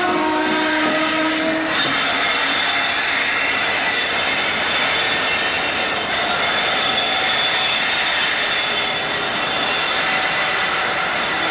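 Steady running noise of a train, heard through an open carriage window, with faint high whining tones over it and a few short lower tones in the first couple of seconds.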